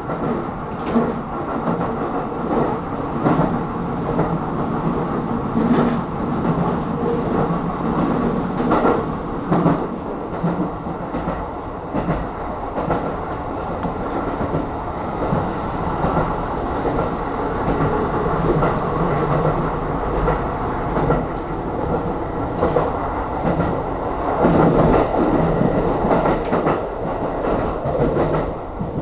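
Aonami Line electric train running between stations, heard from inside the front car: a steady rumble with a motor hum, and wheels clacking over rail joints at irregular intervals.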